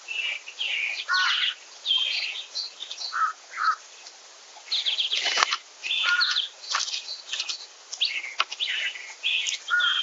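Several songbirds chirping and singing in a busy stream of short, repeated notes. A brief rustle cuts in about five seconds in.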